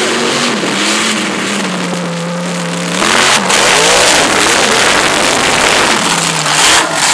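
Supercharged mud truck engine running, then about three seconds in revving hard and staying at high throttle, louder, its pitch wavering up and down.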